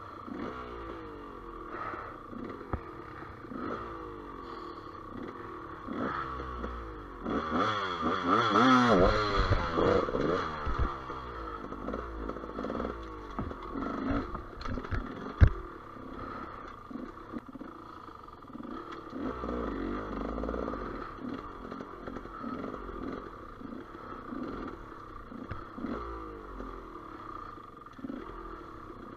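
GasGas EC200 two-stroke enduro motorcycle engine revving up and down through the throttle while riding a rough trail, with clatter from the bike. It revs hardest a few seconds in, and there is one sharp knock about halfway through.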